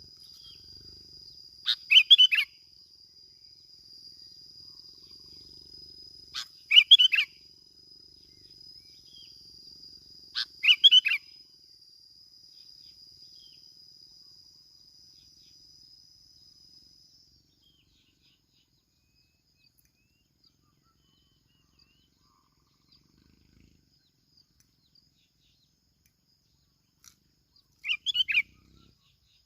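Bulbul calling in short, loud chirped phrases, each about half a second long: three about every four to five seconds, then a long silence before a fourth near the end. A steady high insect-like buzz runs underneath and stops about halfway through.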